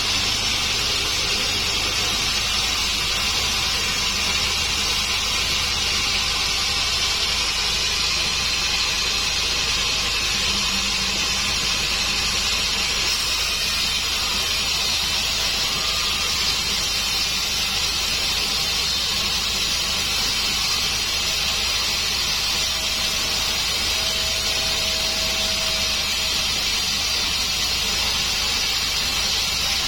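Large sawmill band saw (48-inch) sawing through a dry acacia log: a steady hiss of blade cutting wood over a low motor hum, unbroken throughout.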